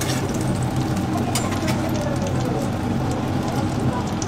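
Battered patties frying in oil on a flat steel griddle: a steady sizzling hiss over a low steady hum, with a few short sharp clicks.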